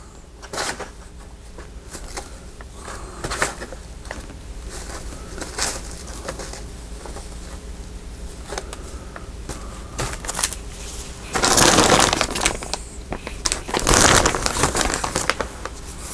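Paper ephemera being rummaged through by hand on a desk: scattered rustles and light taps, then two louder stretches of paper crinkling and rustling near the end.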